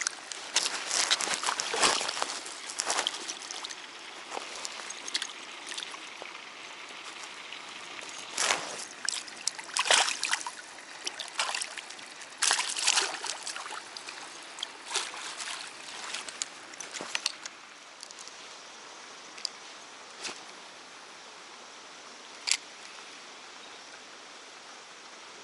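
Water splashing and sloshing in irregular bursts, then settling after about seventeen seconds into a steadier trickling hiss with an occasional single splash.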